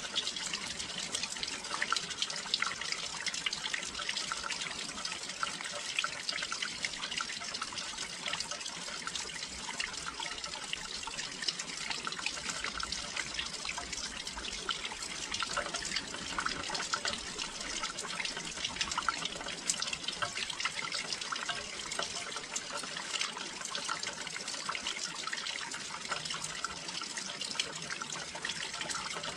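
Steady rain falling near a windowsill: an even hiss thick with many small, sharp drop ticks, unchanging throughout.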